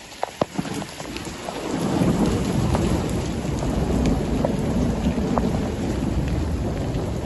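Hailstorm with heavy rain pelting down: sharp ticks of single hailstones striking, thickening about two seconds in into a dense, heavy din.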